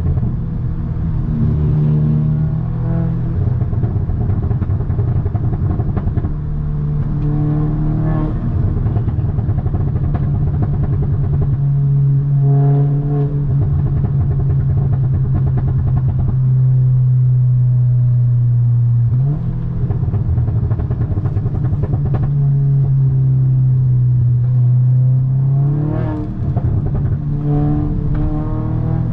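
Audi S3's turbocharged 2.0-litre four-cylinder engine and exhaust under way, droning steadily through long stretches. The pitch steps several times with gear changes and climbs near the end as the car accelerates.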